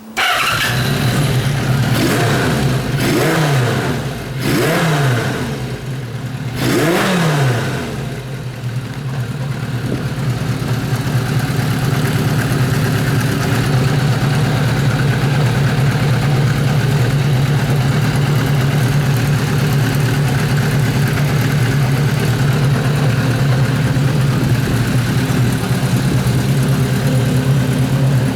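Kawasaki Z500 inline-four motorcycle engine catching and running. It is blipped up and down about three times in the first eight seconds, then settles into a steady idle. It revs up freely, showing the engine runs well.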